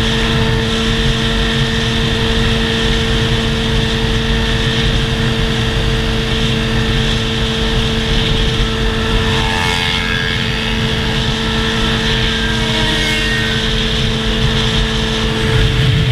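Motorcycle engine running at a steady, unchanging pitch, held at constant revs as when cruising.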